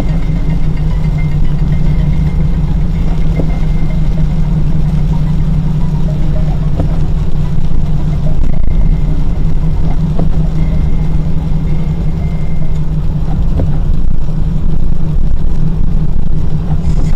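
Car engine and road noise heard from inside the cabin: a steady low drone with no clear change in speed.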